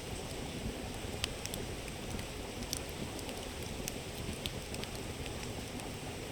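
Campfire crackling with scattered sharp pops over the steady rushing murmur of a river.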